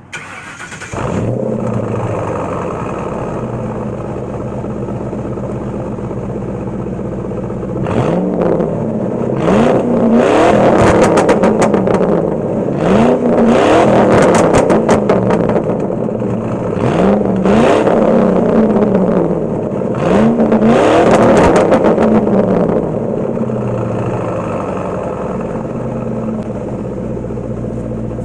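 Ford Crown Victoria Police Interceptor's 4.6-litre V8 starting up and catching, then idling through a muffler-delete exhaust with the catalytic converters still in place. From about eight seconds in it is revved about five times, each rev rising and falling, before it settles back to idle.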